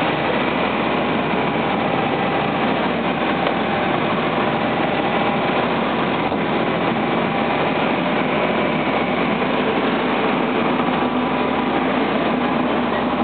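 Cleopatra Fisherman 33 motor fishing boat running steadily at sea: a continuous engine drone mixed with a rushing noise of water and wind, unchanging in level.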